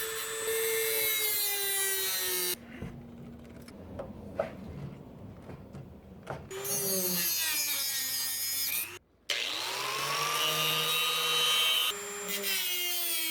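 Dremel rotary tool cutting slots into the heads of seized door screws: a high-pitched whine in several runs. It winds down with falling pitch around the middle and spins back up near 9 seconds in, with a quieter stretch of small clicks between runs.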